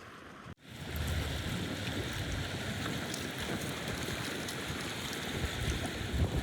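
Outdoor wind buffeting the microphone: irregular low rumbling gusts over a steady rushing noise. A sudden cut about half a second in starts a louder stretch of it.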